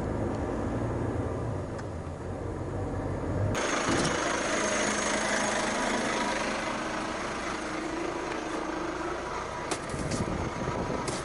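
Heavy truck engine running steadily, then about three and a half seconds in the sound switches suddenly to a loud steady hiss, with a few clicks near the end.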